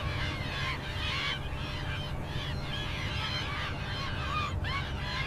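Birds calling, many short calls one after another, over a steady low rumble of outdoor ambience.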